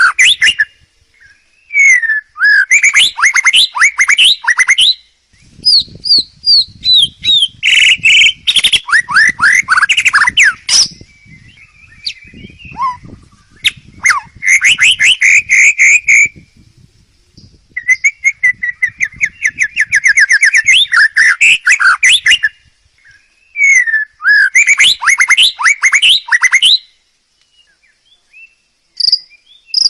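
A songbird singing loud, fast phrases of rapidly repeated sweeping notes, each phrase lasting a few seconds with short pauses between them, and a longer pause near the end.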